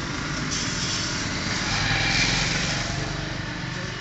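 A small engine running steadily with a hissing edge, swelling a little about two seconds in and then easing off.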